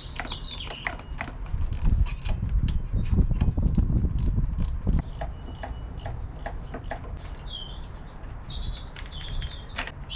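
Hand ratchet clicking in quick runs of sharp clicks while fasteners on a motorbike are worked, with heavier knocking and handling noise in the first half. Birds chirp in the background near the end.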